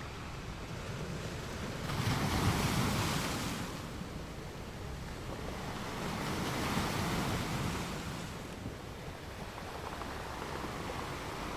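Even rushing noise with no distinct calls or tones. It swells twice, about two seconds in and again about six seconds in, then settles back.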